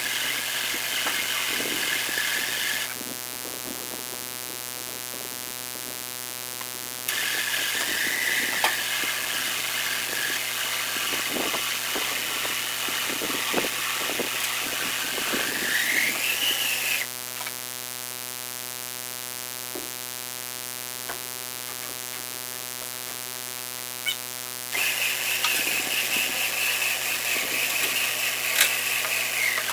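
A small electric motor whirring in three long stretches with pauses between them; its pitch rises just before the second stretch stops. A steady electrical hum runs underneath.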